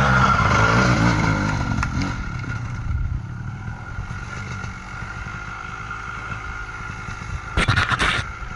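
Kawasaki KDX220 two-stroke dirt bike engine running, louder for about the first two seconds and then settling lower. A quick burst of clattering knocks comes near the end.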